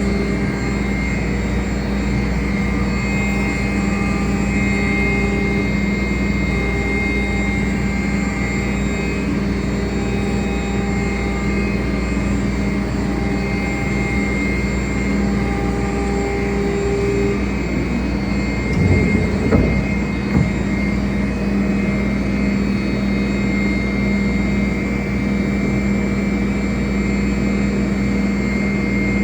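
CNC router running with a steady mechanical drone and held whining tones. One of its tones cuts out about two-thirds of the way through, followed by a few brief louder noises.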